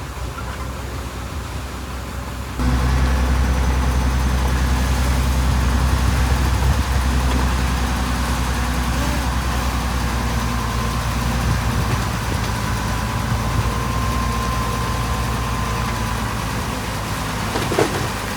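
Diesel engine of heavy earthmoving machinery running steadily, abruptly louder from about two and a half seconds in, with a short sharp sound near the end.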